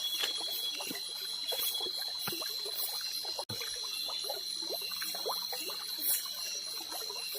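Forest ambience at dusk: a steady, high-pitched drone of insects, with many small trickling, dripping sounds scattered through it. The sound cuts out briefly about halfway through.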